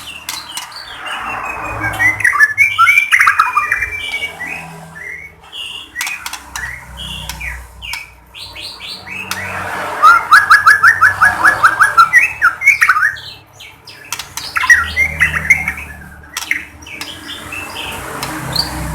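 White-rumped shama (murai batu) singing a varied song of whistles, harsh notes and quick trills, in three bouts with short pauses between them. The middle bout holds a fast run of about ten repeated notes.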